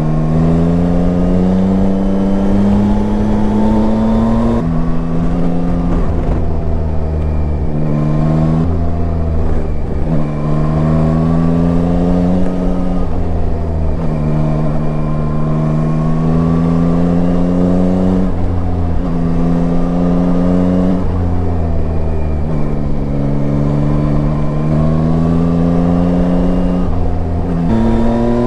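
Yamaha Tracer 9's three-cylinder engine pulling under way. Its pitch climbs with the revs and drops sharply at several gear changes, over a steady low wind rumble.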